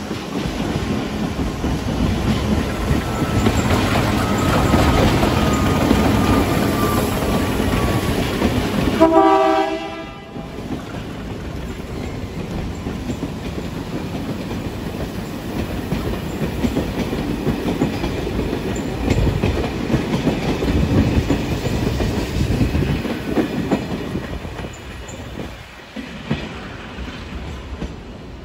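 Bombardier MXS-624 diesel locomotive pulling a passenger train away, its engine running under load and the coaches rolling over the points with a clickety-clack. About nine seconds in, a short horn blast of about a second; the rolling noise then eases as the train draws away.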